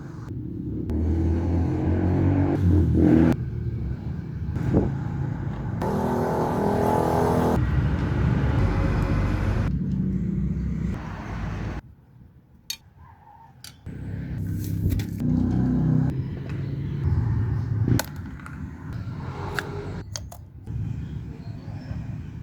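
Rusi Pulse 150FI scooter's engine running, its revs rising and falling, with a quieter lull about halfway through before the engine sound picks up again.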